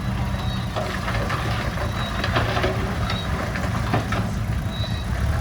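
Heavy diesel engine of the recovery machinery running steadily at a low idle, with a few short high-pitched squeaks at irregular intervals and faint knocks.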